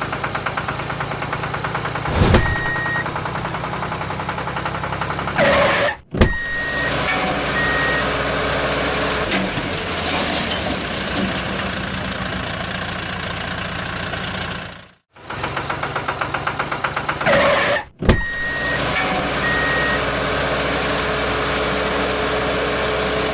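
A vehicle engine running with an even, pulsing beat, heard in several clips joined by abrupt cuts. Short, evenly spaced high beeps like a reversing alarm sound in places.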